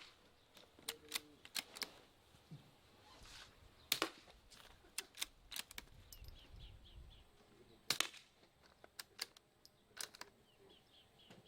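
Suppressed .22-calibre gun firing: a series of sharp, muffled shots, the strongest about four, eight and ten seconds in, with lighter clicks in between.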